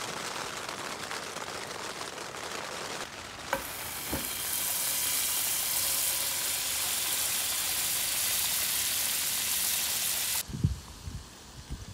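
Potato fries sizzling in hot oil in a saucepan on a portable butane gas stove. A steady hiss starts about four seconds in, after a softer stretch with a couple of clicks, and cuts off suddenly near the end.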